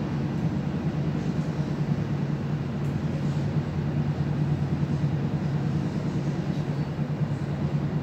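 Interior running noise of an NS VIRMm double-deck electric train at speed: a steady rumble with a low hum.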